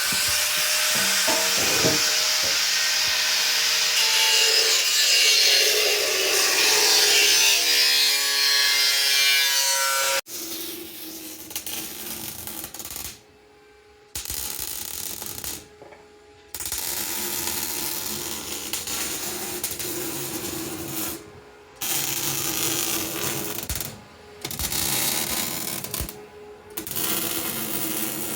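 Handheld power tool working on the van's steel bodywork. It runs steadily for about ten seconds and stops abruptly, then starts and stops in bursts with short pauses.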